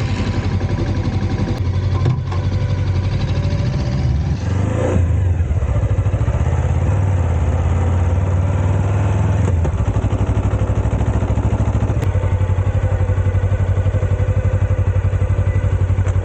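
Suzuki V-Strom 250 motorcycle engine running steadily, with a brief rise and fall in revs about four to five seconds in.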